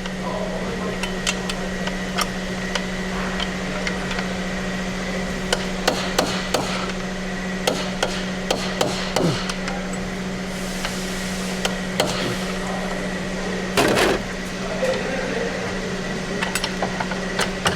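Hand tools clinking and knocking at irregular moments over a steady low hum, with one louder scrape or clatter about 14 seconds in.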